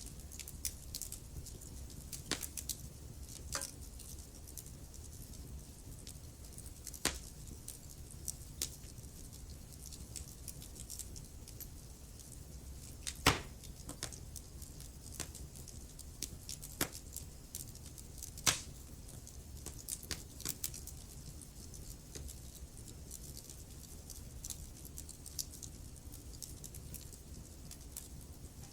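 Wood fire burning in a fireplace: steady low rumble with irregular crackles and snaps of burning logs, a few sharper pops standing out.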